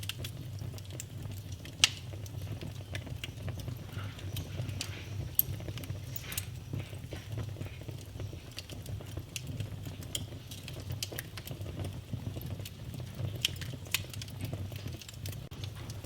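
Wood fire burning in a fireplace: dense irregular crackling and snapping over a steady low rumble of the flames, with a sharp pop about two seconds in and another about five and a half seconds in.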